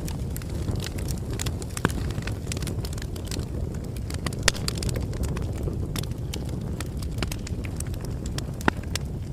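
Campfire burning: a steady low rumble of flames with irregular sharp crackles and pops, a few louder snaps among them.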